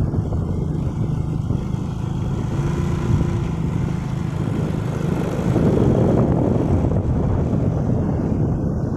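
Motorcycle engine running at a steady speed while riding, with a constant rush of wind and road noise; it gets a little louder about six seconds in.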